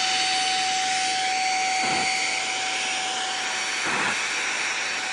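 Shark HV301 Rocket corded stick vacuum running: a steady rushing hiss of air over a steady motor whine, with a few soft thumps.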